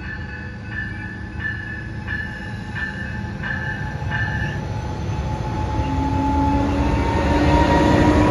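Train approaching and growing louder, with a low rumble and steady pitched tones over it. Through the first half a bell-like ring repeats about three times every two seconds, then stops.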